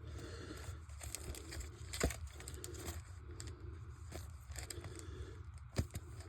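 Bagged comic books being handled and filed into a cardboard box: soft plastic rustling and crinkling with scattered light clicks, and two sharper knocks, one about two seconds in and one near the end.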